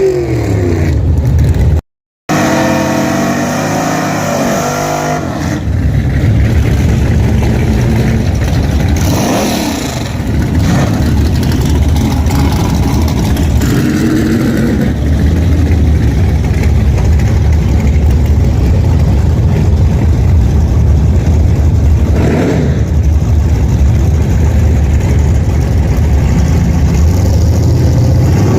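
Pontiac car's engine running hard as the car accelerates. Its pitch dips briefly and picks up again about ten seconds in and again after twenty-two seconds.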